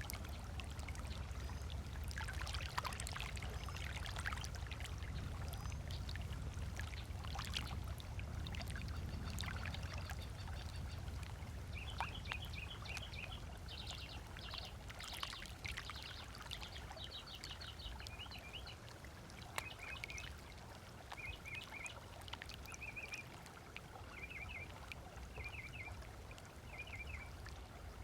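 Small waves lapping and splashing at a lakeshore in a steady wash of water sound, with a low rumble underneath that fades out a little past halfway. From about halfway through, a bird gives short chirping calls over and over.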